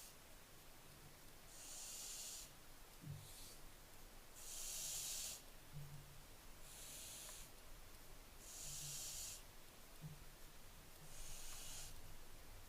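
Barn owlets giving their rasping, hissing begging calls (the 'snoring' of barn owl chicks): about six separate hisses, each up to about a second long, a second or two apart.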